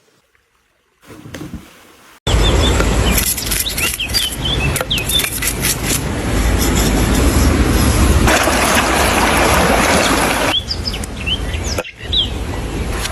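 Birds chirping over a loud, steady rushing noise that starts suddenly about two seconds in, after a near-silent start.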